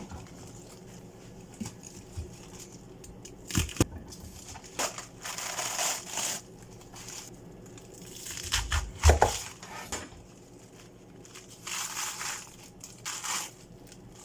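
Crunching and rustling as food is handled in kitchen prep, in irregular spells, with a couple of sharp knocks.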